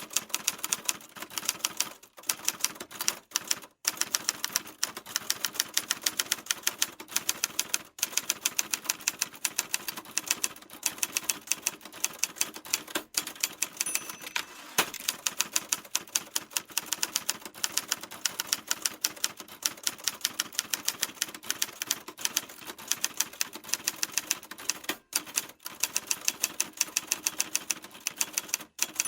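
Typewriter keys clacking in rapid, continuous typing, with a few brief pauses.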